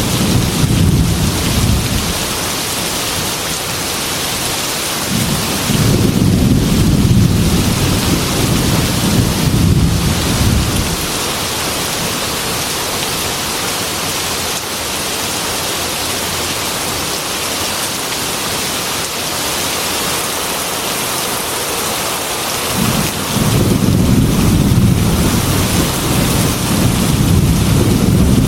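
Heavy rain pouring steadily on a metal roof, with three long low rolls of thunder. One fades out in the first couple of seconds, another rumbles from about five to eleven seconds in, and a third builds up near the end.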